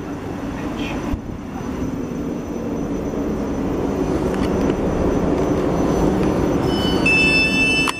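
South Western Railway Class 458 electric multiple unit running at the platform, its rumble growing gradually louder. A set of high-pitched tones starts near the end.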